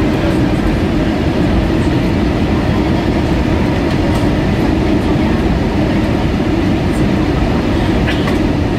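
Steady roar inside the passenger cabin of an Airbus A320-232 on its approach: airflow and engine noise, with a few faint ticks near the end.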